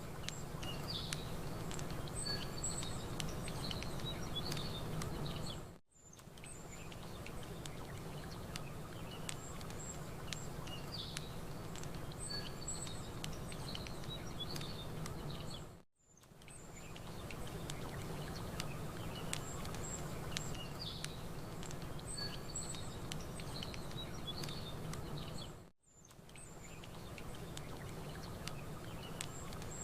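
Campfire crackling with scattered pops and small birds chirping over a low steady rumble. The same ambience loop repeats about every ten seconds, dropping briefly to silence three times at the seams.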